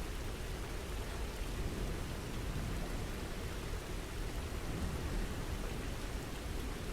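Steady rain falling, an even hiss with a low, full rumble underneath.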